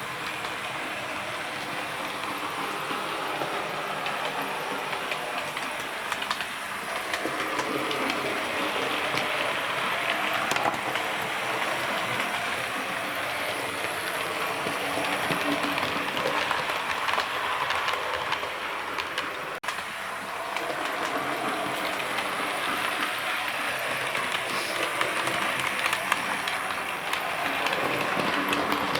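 Model train running round the track, its wheels rattling and clicking over the rail joints and points. The sound swells and fades several times as the train passes near and then away.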